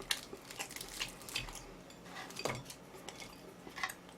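Scattered light clicks and clinks of utensils against food containers, a few a second, with no steady sound beneath.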